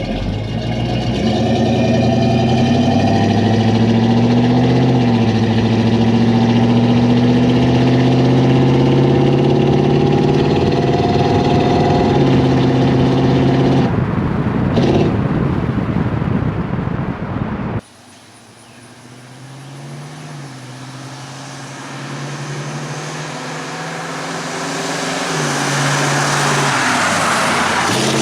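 1964 Pontiac GTO's 389 V8 running through Flowmaster Super 44 3-inch mufflers: a loud, steady idle with a short rev-up about four seconds in. After an abrupt cut the engine is heard more quietly, getting steadily louder toward the end.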